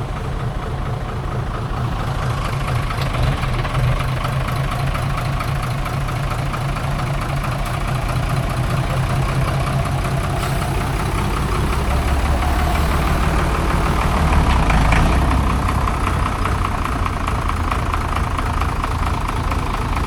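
Heavy logging truck engine running steadily, growing louder about twelve seconds in and easing off again about three seconds later.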